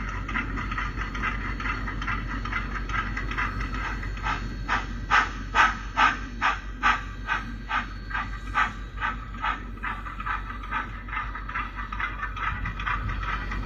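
Model train running on the layout: a steady hum with an even rhythmic beat, about two to three a second, setting in about four seconds in and loudest soon after.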